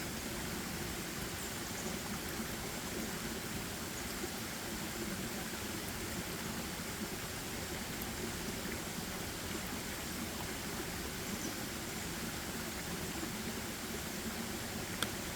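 Steady, even rushing forest ambience, with one sharp click near the end.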